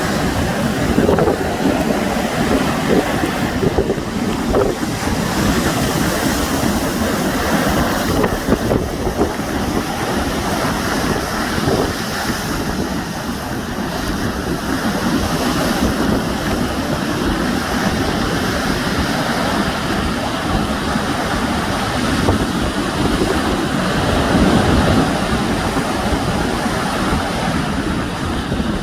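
Sea waves washing on the shore in a steady rush, with wind buffeting the microphone.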